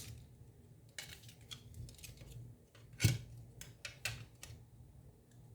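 A few sharp, separate clicks and taps from handling the controller's plastic parts and small tools, the loudest about three seconds in.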